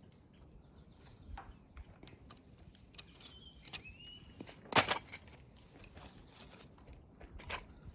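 Wood campfire crackling with scattered sharp pops, one louder burst of crackles about five seconds in. A wild bird gives a short whistled call near the middle.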